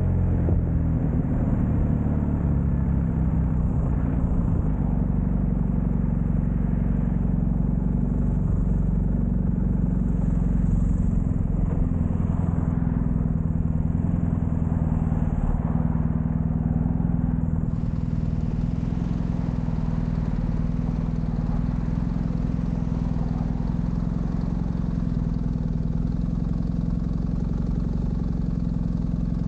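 Motorcycle engine running on the highway, with road and wind noise. The engine note shifts up and down in the first few seconds, then holds steady.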